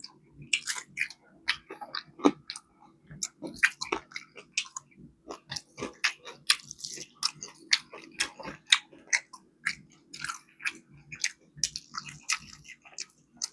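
Close-up chewing and biting of crispy flour-coated fried chicken wings: irregular wet smacks and crunches, several a second.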